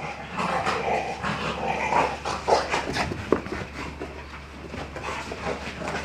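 Two dogs playing together, making dog noises in irregular bursts that are loudest in the first half.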